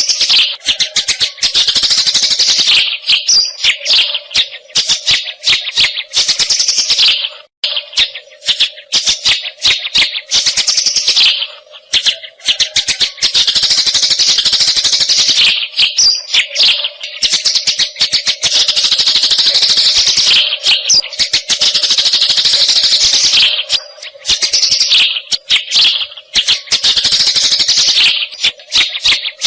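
Eurasian tree sparrow (burung gereja) in a fast, dense chattering of chirps, a near-continuous excited 'fighting' chatter with a few short breaks.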